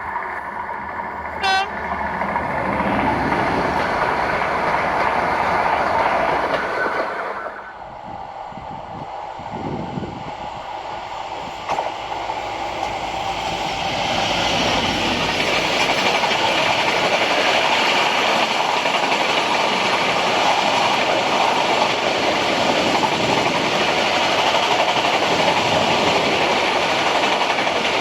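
A train running past on the rails, its wheels and cars rolling by, the noise building about twelve seconds in and then holding steady. In the first seven seconds, several steady high tones sound over the rolling noise and cut off abruptly.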